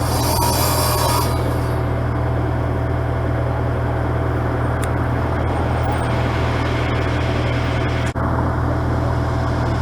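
Steady low rumble of a running motor vehicle, with a brief hiss in the first second or so and a sudden momentary drop-out about eight seconds in.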